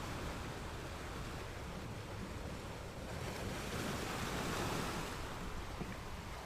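Ocean surf: a steady wash of waves, with one wave swelling louder and breaking a little past halfway through.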